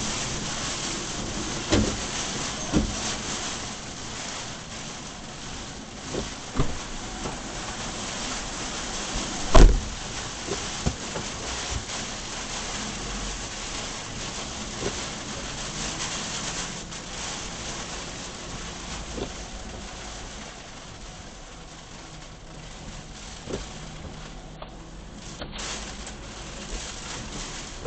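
Heavy typhoon rain pouring steadily, with scattered sharp knocks and one louder thump about ten seconds in. The downpour eases slightly toward the end.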